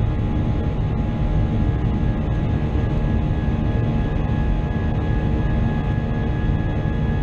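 Cabin noise of an Airbus A320: a steady drone of jet engines and rushing air, with several steady engine tones over a deep rumble.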